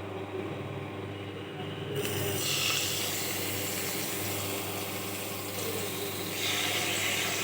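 Marinated chicken pieces frying in hot oil in a kadai, sizzling. The sizzle starts about two seconds in and swells again near the end.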